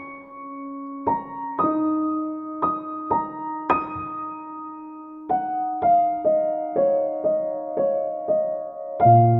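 Soft background piano music: single notes struck about every half second and left to ring. A low bass note joins near the end.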